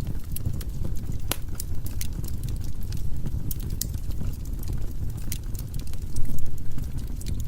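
Firewood burning in a fireplace: a steady low rumble of flame with frequent sharp crackles and pops, one louder pop about a second in.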